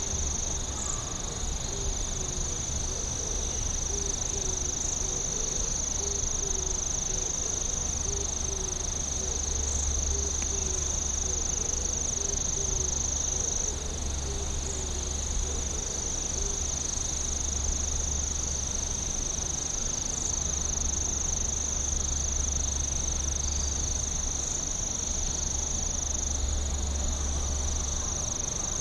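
Night insect chorus: a continuous high-pitched trill, with a lower chirp repeating a little over once a second through the first half, over a steady low rumble.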